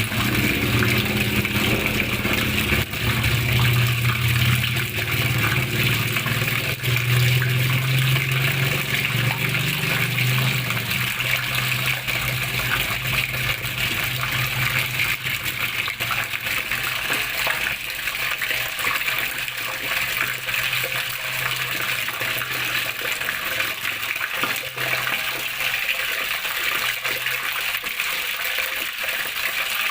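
Water running and splashing steadily, a continuous rushing hiss. A low motor hum underneath in the first half fades away about halfway through.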